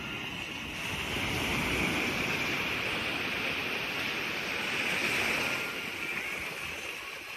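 Sea surf: a steady rush of waves, swelling about a second in and again around five seconds before easing off.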